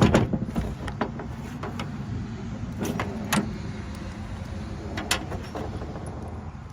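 Tool handling on a drill-driven wire stripper: a loud clunk at the start, then sharp metallic clicks about three seconds in, again just after, and near five seconds, over a steady low hum.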